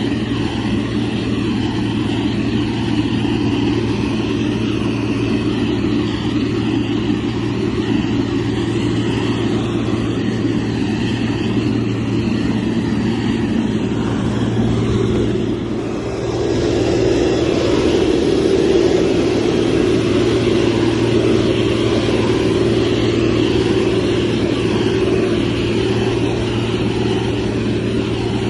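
Motor grader's diesel engine running steadily under load, easing off briefly a little past halfway and then running slightly harder.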